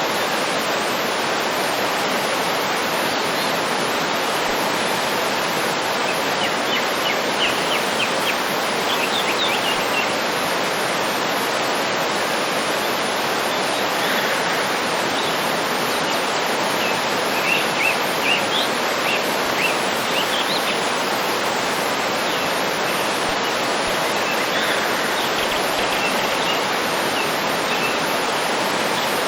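Waterfall rushing steadily, with birds chirping briefly over it in several short bouts.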